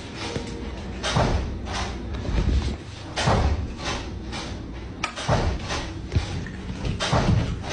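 A series of irregular knocks and thumps, a stroke every half second to a second, some louder than others.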